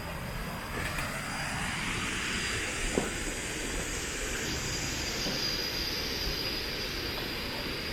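Pha Suam waterfall: a steady rush of falling water. A single sharp click comes about three seconds in.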